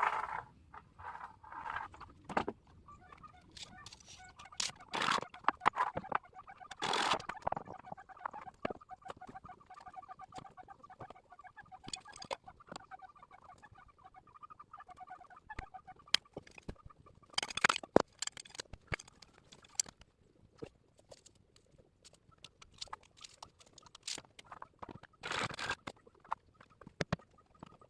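Chickens clucking, with a wavering, drawn-out sound through the middle stretch. Short scraping or knocking noises come and go, with louder ones near 7, 18 and 25 seconds.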